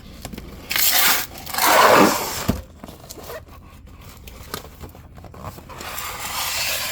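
Cardboard box being handled and turned over, with scraping and rustling rushes and a single knock about two and a half seconds in.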